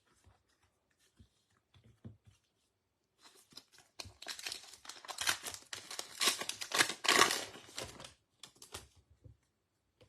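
A trading card pack's foil wrapper being torn open and crinkled: faint handling clicks, then about four seconds of dense crackling tearing, then a few last rustles.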